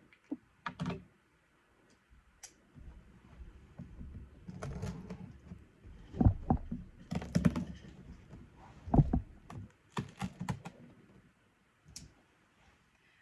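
Cardboard box packaging being opened and handled by hand: irregular knocks, clicks and rustling, in scattered bursts with short pauses.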